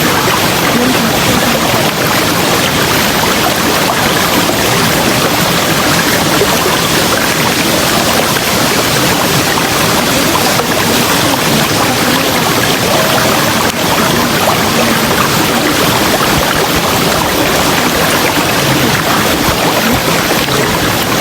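Steady rush of a flowing river, with small bubbling sounds in the water.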